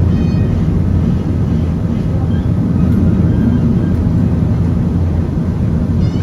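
Steady low rumble inside a Peak Tram funicular car.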